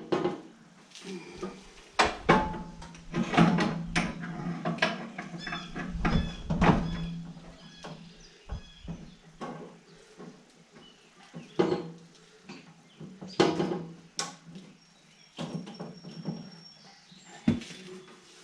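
Irregular metal clanks and knocks of hand work on mower parts, over a steady low hum.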